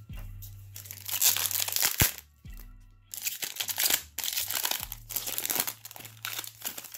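A hockey card pack wrapper crinkling and being torn open in several rustling bursts, with a sharp click about two seconds in.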